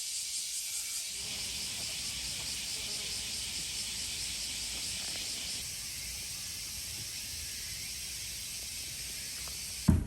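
Steady high-pitched chirring of insects, with a faint regular pulse. It cuts off suddenly near the end, where a loud thump comes in.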